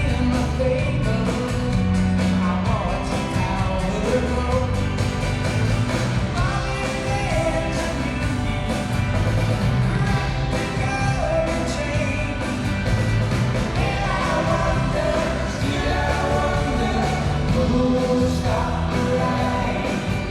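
Live rock band performance with a lead vocalist singing over the band.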